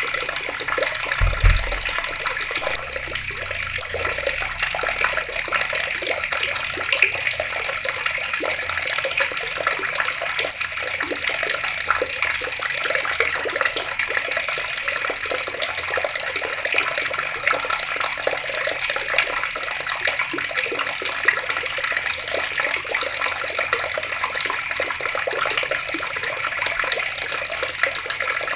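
Water flowing steadily from an outdoor tap, an even, unbroken rush. A brief low thump about a second in.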